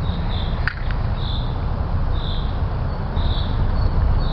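Wind rumbling on the microphone, with a short high chirp repeating about once a second and a single click about a second in.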